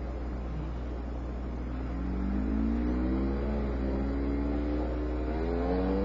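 Motorcycle engine revving as it accelerates, starting about two seconds in, its pitch rising and falling several times as it goes through the gears or throttle changes, over a steady low rumble.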